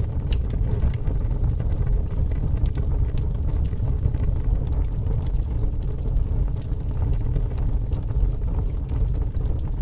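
A fire burning with a steady low roar and scattered small crackles and pops.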